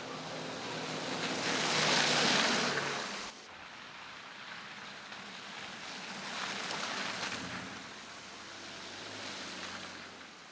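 Vehicles passing on a slushy, snow-covered street: swells of tyre hiss over a low engine hum. The first passes about two seconds in and cuts off suddenly, and another passes later.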